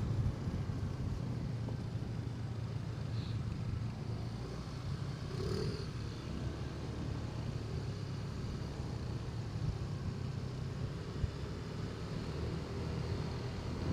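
Motorcycle running at a steady speed while riding, a low even drone.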